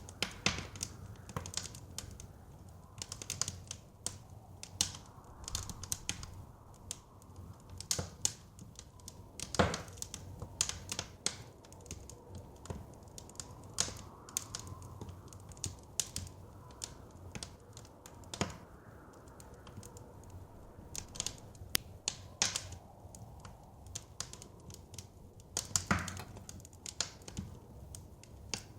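Wood fire in a fireplace crackling, with irregular sharp pops and snaps, a couple of them louder, about ten seconds in and near the end. Underneath runs a steady low rush, the soft blizzard wind the track lays under the fire.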